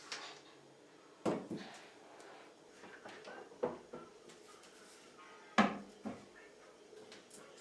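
Kitchen handling sounds: three sharp knocks with lighter clicks and clatter between them, the loudest about two-thirds of the way through.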